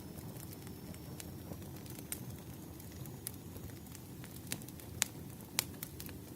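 Wood fire crackling: irregular sharp pops and snaps over a steady low rumble, with a couple of louder pops near the end.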